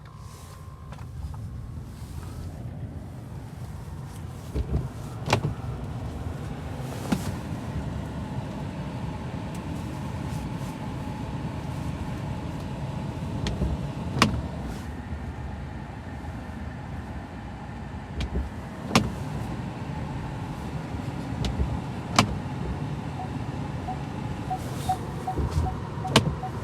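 Car engine running steadily, with several sharp clicks or knocks at intervals and faint quick ticking near the end.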